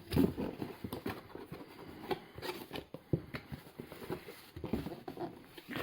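Packaging being handled: plastic air-cushion packing bags and cardboard boxes rustling, with irregular light taps and clicks.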